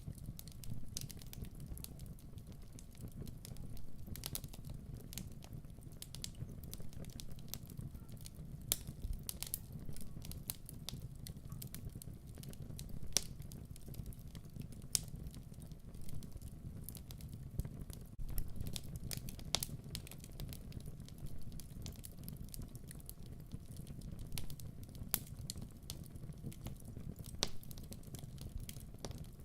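Wood fire in a fireplace burning with a steady low rumble and irregular crackles and pops.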